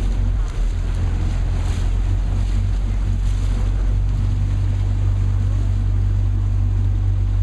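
A tour boat's engine running steadily, a deep low drone, with a steady hiss of wind and water over it.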